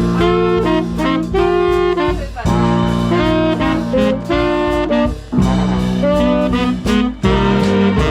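Swing band playing a jazz arrangement, with saxophones and brass holding chords together over a bass line. The ensemble plays in short phrases, with brief breaks about two and a half, five, and seven seconds in.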